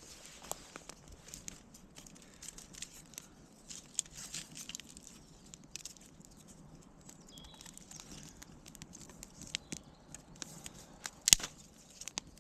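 Dry twigs and leaf litter crackling and snapping in irregular, scattered clicks, with one loud sharp snap about eleven seconds in.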